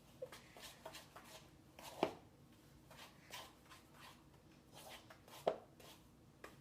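A spoon stirring a stiff dough of flour, salt, water and oil in a bowl: irregular scrapes and light knocks, with two sharper knocks about two seconds in and again about five and a half seconds in.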